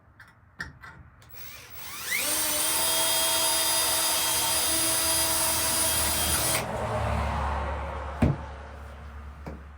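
Power drill whining up to speed about two seconds in and running steadily for about four and a half seconds, drilling a hole for a hinge screw in hemlock. It then stops suddenly and winds down, with a sharp click near the end.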